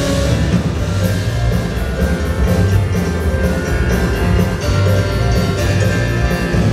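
Band playing an instrumental rock piece live, a drum kit keeping a steady beat under sustained melodic instruments.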